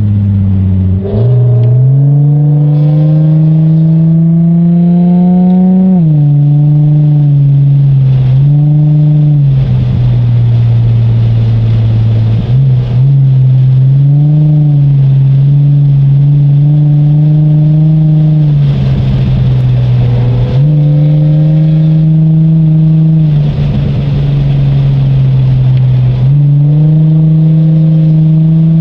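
Car engine heard from inside the cabin while lapping a race track: its pitch climbs steadily for several seconds under acceleration, drops sharply, then holds fairly level with several dips and climbs as the driver lifts off and gets back on the throttle through the corners.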